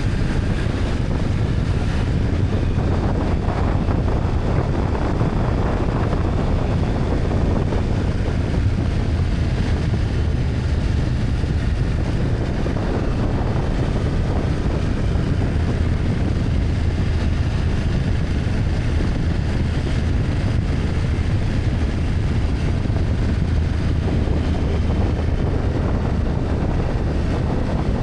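BMW F800GS parallel-twin engine running steadily on the move, with wind rushing over the microphone.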